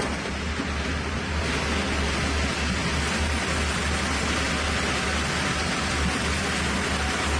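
Sawmill machinery running steadily: a constant rushing noise over a low hum.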